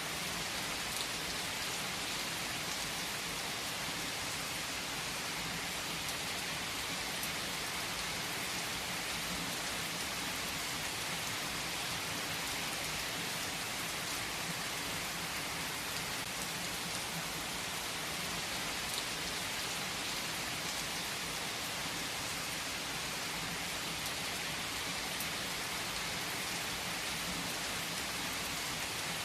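Steady rain falling, an even hiss that does not change, with a few faint sharp ticks scattered through it.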